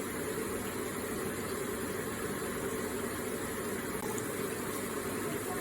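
Electric water feature running: a steady, gentle flow of falling water.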